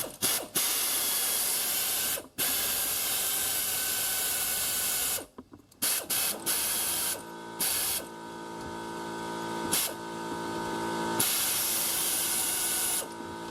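Pneumatic air ratchet run in bursts, its exhaust air hissing with each trigger pull: two long runs of a few seconds, several short blips, then another long run near the end. A steady hum sits underneath from about halfway.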